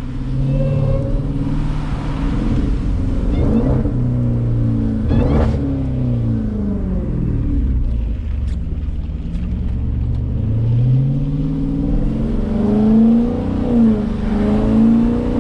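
Jeep Grand Cherokee Trackhawk's supercharged 6.2-litre V8, tuned to about 1000 hp, running under the cabin as the SUV drives. Its pitch climbs and falls several times as it accelerates and eases off, most often in the second half.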